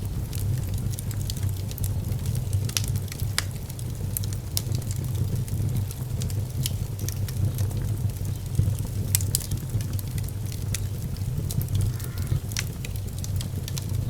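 Fire burning in a fireplace: a steady low rumble of flame, with frequent sharp crackles and pops scattered irregularly through it.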